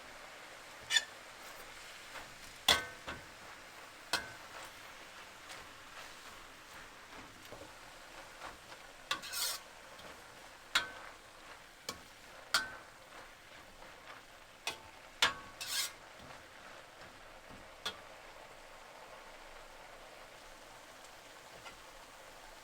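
Metal cooking utensil stirring food in a pan, with irregular clinks and knocks against the pan, some of them ringing, and two brief scrapes, over a steady low hiss.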